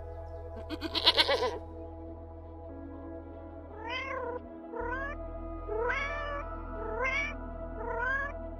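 A sheep bleats once, wavering, about a second in. Then a domestic cat meows five times, about a second apart, each meow rising in pitch, over steady background music.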